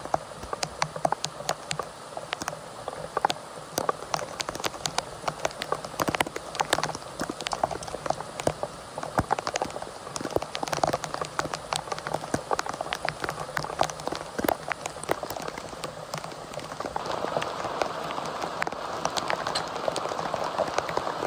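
Heavy rain on a tent: big drops strike in sharp, irregular taps over a steady hiss of rain. The rain grows heavier and denser about three-quarters of the way through.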